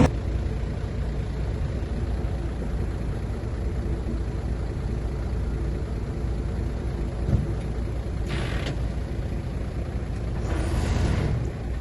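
Heavy diesel earthmoving machinery engine running steadily, with two short hisses of air, one about eight seconds in and one near the end.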